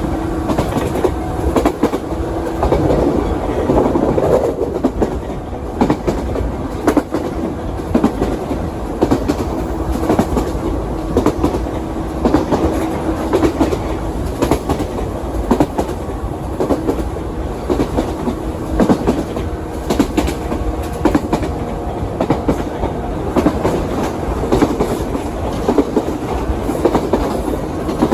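JR 117 series electric train running at speed, heard from inside the passenger car: a steady running rumble with a faint hum and a continual clickety-clack of wheels over rail joints.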